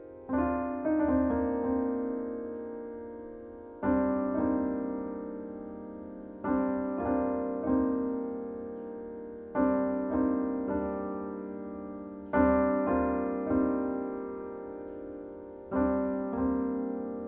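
Solo piano music in C minor, a slow repeating phrase. Groups of about three notes are struck roughly every three seconds, each left to ring and fade.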